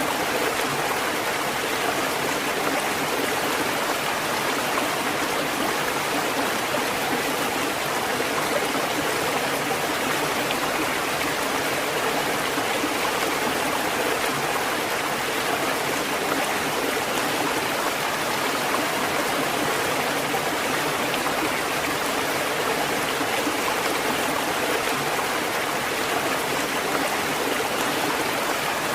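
Steady rushing water, an even continuous hiss that holds the same level throughout without any rise and fall of separate waves.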